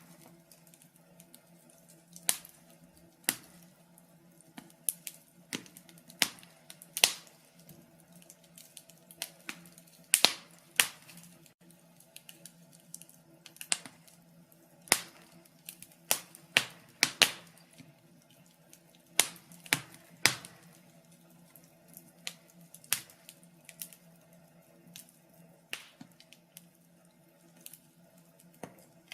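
Wood fire crackling, with irregular sharp pops and snaps, a few louder ones among them, over a faint steady hum.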